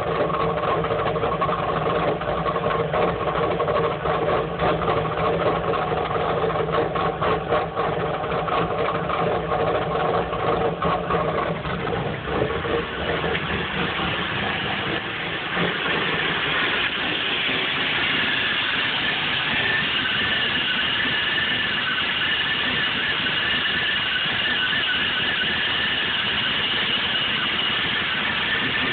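1994 Chevrolet Camaro's 3.4 L V6 idling rough and uneven, a lope like an aftermarket camshaft though it has a stock one, the sign of an engine the owner finds running too rich. About halfway through the sound turns to a steadier hiss with a high whine.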